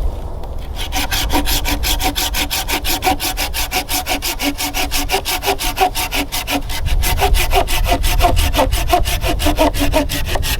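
Hand saw cutting through wood in fast, even strokes, about four or five a second, the blade ringing faintly with each stroke. The sawing starts about a second in and stops near the end.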